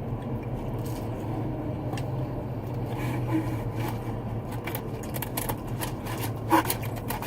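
Small clicks and rustling from handling and eating fried chicken tenders, denser in the second half, over a steady low hum.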